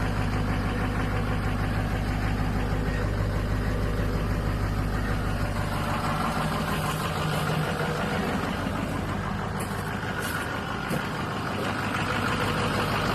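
Ford 6.0 Power Stroke V8 turbodiesel idling steadily, still cold a couple of minutes after being started.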